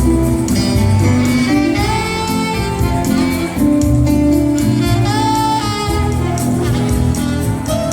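Soft instrumental dinner music from a band: a held, gliding melody line over a bass line and accompaniment.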